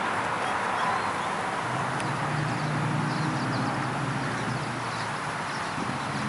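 Steady outdoor background noise with a low hum, and a few faint, high chirps of small birds about halfway through and near the end.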